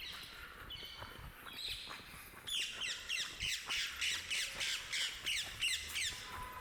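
A bird calling outdoors: a couple of short harsh calls, then from about two and a half seconds in a rapid series of sharp falling notes, about three or four a second, that stops about six seconds in.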